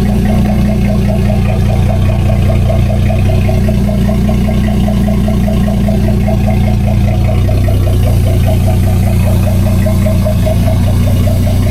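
An engine idling steadily, with a fast, even pulsing beat.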